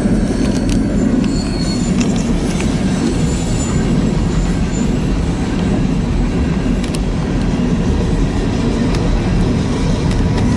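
Freight train rolling past: a steady low rumble of cars on the rails, with a few sharp clicks and a faint wheel squeal.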